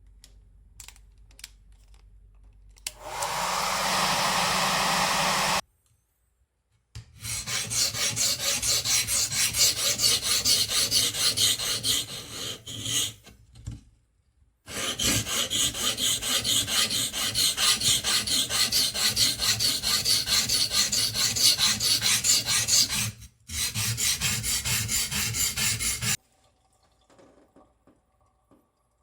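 Steel hedge-shear blade being rubbed rapidly back and forth on an abrasive, a few strokes a second, in two long runs with a short break between. Before them, a short steady hiss lasting about three seconds.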